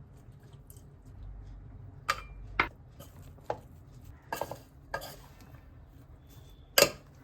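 Onion pakora batter of gram flour and water being mixed in a bowl, with irregular clinks and knocks against the bowl; the sharpest knock comes near the end.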